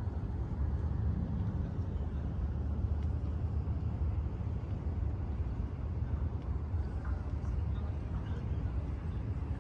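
Steady low rumble of outdoor city ambience, like distant traffic, with faint sounds of people near the end.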